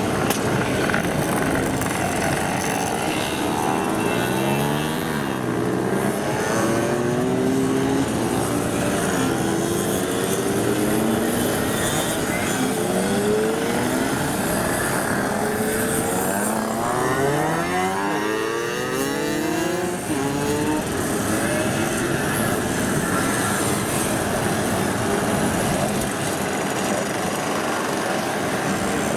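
Mopeds riding past one after another on a race track. Several engine notes overlap, each rising and then falling in pitch as it goes by.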